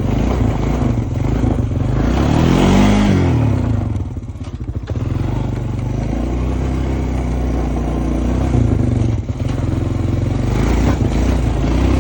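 Honda Foreman ES ATV engine running while riding. The pitch rises and falls about two to three seconds in, the engine eases off briefly around four seconds, then it runs steadily.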